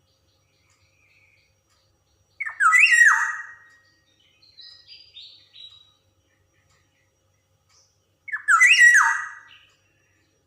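Black-naped oriole singing: two loud song phrases about six seconds apart, with three short, softer notes between them.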